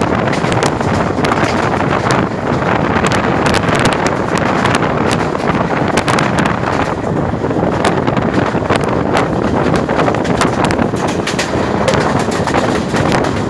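Moving passenger train: steady wind rushing over the microphone mixed with the train's running noise, with frequent sharp clicks and rattles.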